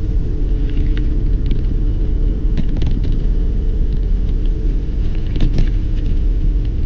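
Steady low rumble of riding, the sound of wind and road noise on the rider's microphone, with a few faint clicks.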